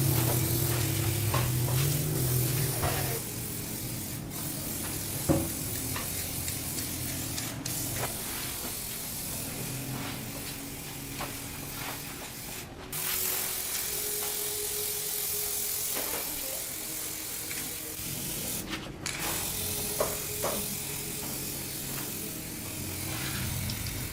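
Steady hissing with scattered clicks and light knocks, broken by several abrupt cuts.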